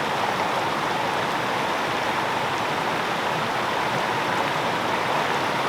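Steady rush of Multnomah Creek's water just above Multnomah Falls.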